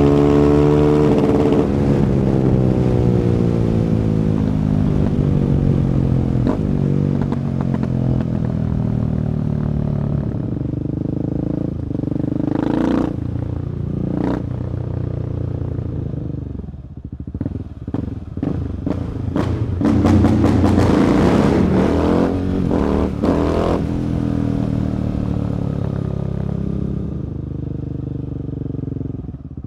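2017 Husqvarna 701 Supermoto's single-cylinder engine through an Akrapovic exhaust, revving high at first, then falling in pitch as the revs drop. Bursts of sharp clatter and cracks come through the middle, and the engine runs lower near the end.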